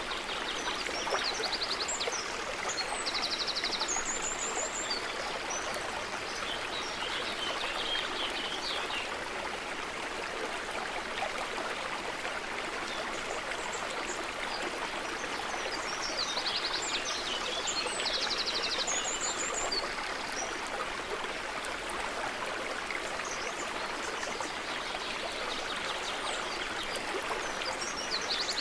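A stream of running water makes a steady rushing noise, with birds calling above it: short, rapid, high trills and chirps in two clusters about fifteen seconds apart.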